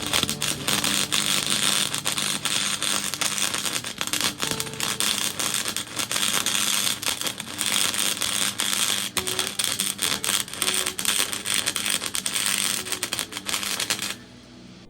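Flux-core wire welder arc crackling steadily for about fourteen seconds over a low hum, then stopping suddenly near the end.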